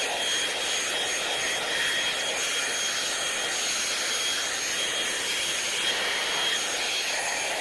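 Hot-air brush (hair dryer brush) running steadily: a rush of blown air with a high, steady motor whine.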